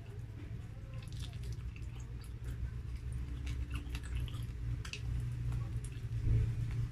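Close-up chewing of grilled chicken and rice eaten by hand, with many small scattered mouth clicks over a steady low hum.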